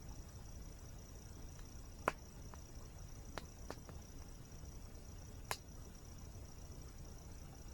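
Campfire crackling, with a few sharp pops, the loudest about two seconds in. Behind it runs a steady high insect trill like a cricket's, over the low rush of a waterfall.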